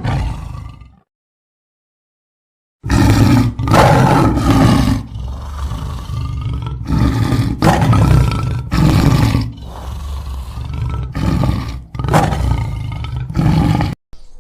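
A large animal roaring: one call that ends about a second in, then after a short gap a long series of loud, repeated roars that cuts off suddenly near the end.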